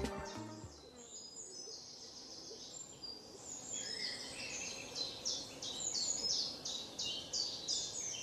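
Songbirds chirping and trilling in quick, high, repeated notes, sparse at first and busier from about three seconds in. A music track fades out just at the start.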